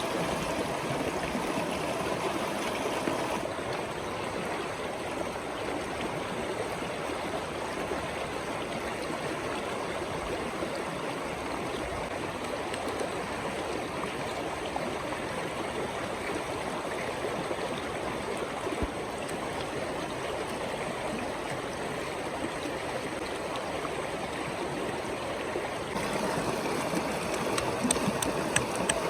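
Steady rushing and gurgling of a river or stream flowing, with a few light clicks near the end.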